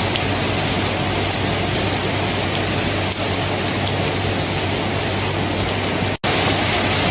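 Steady heavy rain as an even, dense hiss, with a faint steady low hum under it. The sound cuts out for a split second about six seconds in, then resumes.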